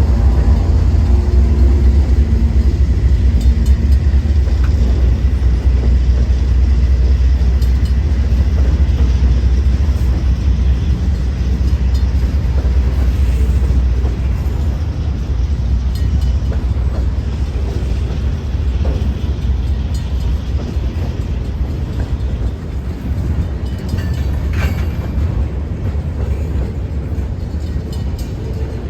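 Freight train passing: the diesel locomotive's engine is heard for the first couple of seconds, then a steady low rumble of rolling cars that slowly fades over the second half.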